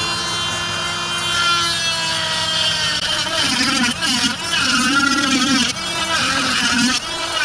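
Handheld cutoff tool's high-pitched motor whine, running steadily at first, then wavering in pitch and loudness from about three seconds in as it cuts a hole into the wooden end piece.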